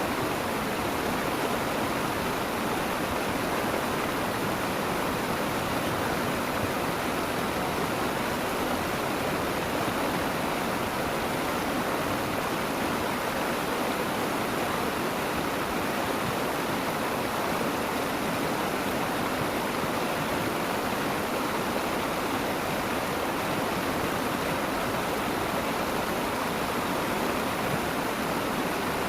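Steady rush of flowing water from a stream or ditch, even and unbroken throughout.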